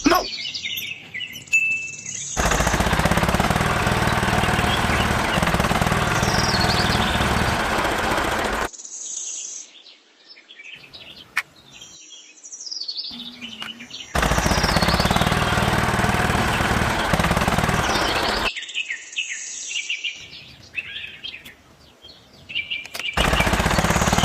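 Small motor of a DIY mini toy tractor pump rig running with a fast, loud rattle in three stretches that start and stop abruptly. Birds chirp in the quieter gaps between.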